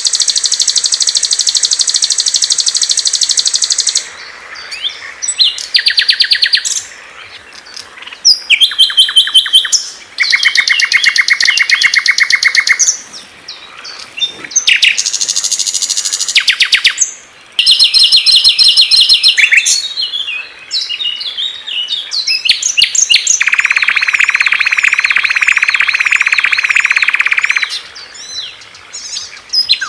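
Songs of several small songbirds in a series: fast, high-pitched trills and chattering phrases from different birds, one after another. Each stretch lasts a few seconds and cuts off abruptly into the next.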